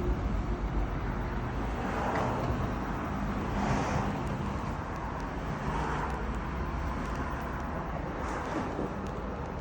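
Road traffic noise: a steady rumble with vehicles swelling past every couple of seconds.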